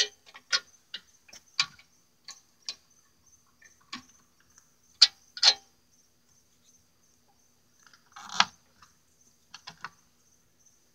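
Scattered sharp metal clicks and clinks, about a dozen spread irregularly, with a short scraping rattle past the middle: bolts and a hand tool being handled while a truck door striker is bolted on.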